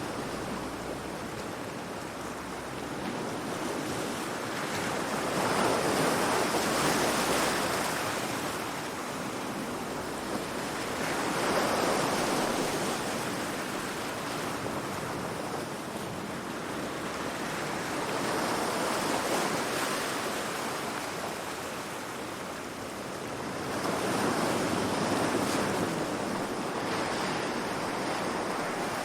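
Calm sea waves washing in and drawing back, the surf swelling about every six seconds.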